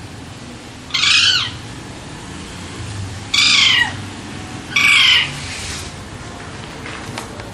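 Alexandrine parakeet calling three times, about a second to two apart, each call loud, about half a second long and falling in pitch.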